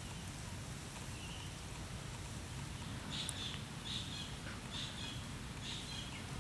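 Four short, high bird calls about a second apart, over a steady low rumble of outdoor background noise.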